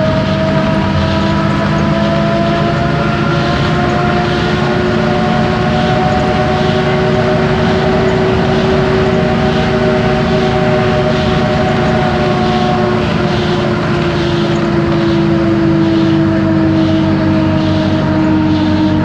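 Isobus City 1200 city bus under way: its drivetrain (ZF Ecomat automatic gearbox and differential) gives a steady whine over the MAN diesel engine and road noise. The whine rises slightly in pitch as the bus gathers speed, then falls gently as it eases off.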